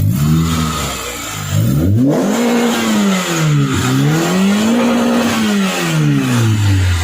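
Toyota 2ZZ 1.8-litre four-cylinder engine, swapped into a 1986 Corolla EE80, being revved up and down. There is a short blip near the start, then two long rises and falls in pitch.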